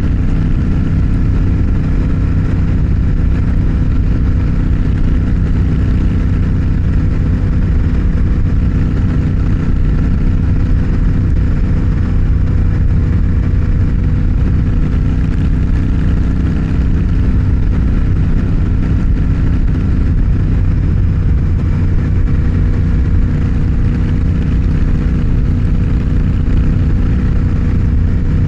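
Motorcycle engine running at a steady, unchanging speed, heard over a constant low rumble.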